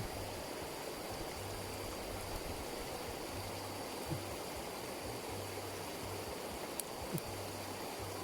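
Steady rush of flowing water, with a faint low hum pulsing on and off beneath it and a few light clicks.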